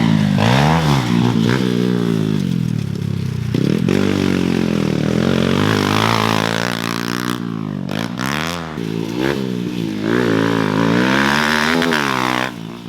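Dirt bike engine revving on the track, its pitch repeatedly rising and falling with the throttle, fading somewhat near the end.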